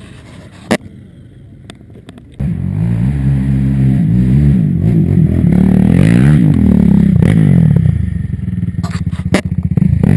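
A small off-road vehicle engine running loud from about two seconds in, revving up and down, after a single sharp click near the start.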